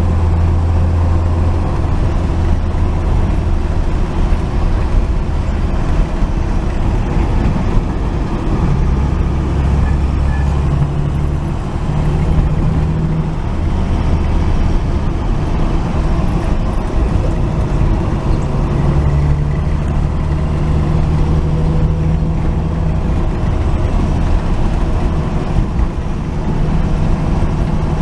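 1949 Chevrolet truck's straight-six engine and road noise while cruising: a steady low drone whose pitch shifts up and down a few times as the speed changes.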